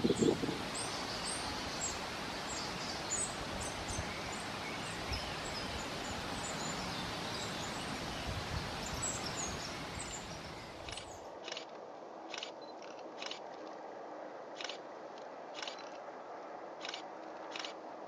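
Steady outdoor background hiss with faint, high small-bird chirps. About eleven seconds in, the background drops away and a series of short, sharp high calls follows, roughly one a second.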